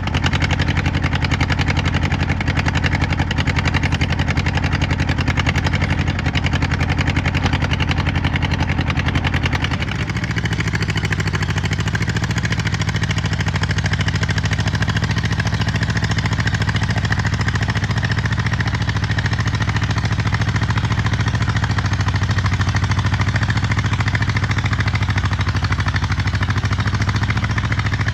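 Allis-Chalmers CA tractor's four-cylinder gasoline engine running steadily while pulling a disc harrow. About ten seconds in the sound dips briefly, then settles into a slightly different steady note.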